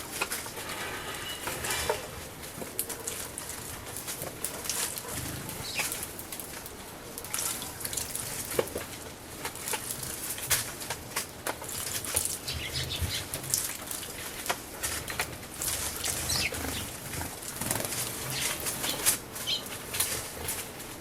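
Eurasian tree sparrows bathing in a bird bath: irregular splashing and wing-fluttering in the water, with a few short chirps.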